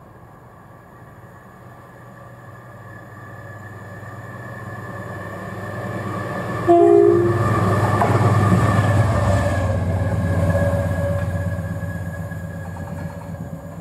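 A train approaching and passing through the station without stopping, growing steadily louder, with a short two-tone horn blast about seven seconds in. The rumble of wheels on rail peaks just after the horn and then fades as it goes away.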